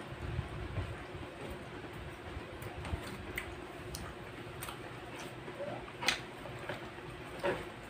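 Mukbang eating sounds: soft, scattered mouth clicks and lip smacks of two people chewing rice and chicken liver and gizzard adobo, with two louder smacks about six seconds in and near the end, over a faint steady hum.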